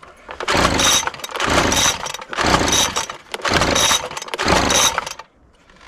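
Gas leaf blower being pull-started: five pulls on the recoil starter rope, about one a second, and the engine does not catch.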